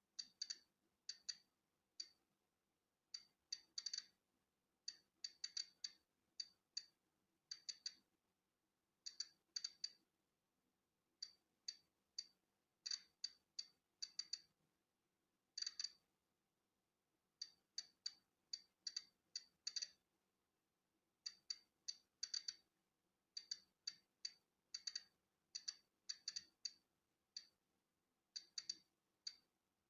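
Polon EKO-C digital Geiger counter clicking at irregular, random intervals, sometimes several in quick succession. Each click is one count from natural background radiation.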